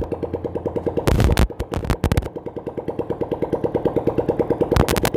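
Bajaj Pulsar's single-cylinder engine idling with a steady, even beat, freshly rebuilt with new piston rings and a new clutch-cover gasket, the rpm holding stable. A few sharp clicks sound over it about a second in and again near the end.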